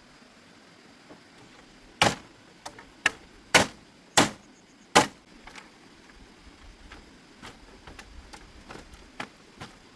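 A series of sharp knocks: five hard strikes, each about half a second to a second apart, from about two to five seconds in, then lighter taps and clicks.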